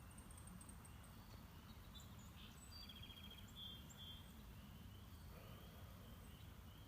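Faint bird chirps and a short rapid trill, clustered a few seconds in, over a low steady outdoor rumble.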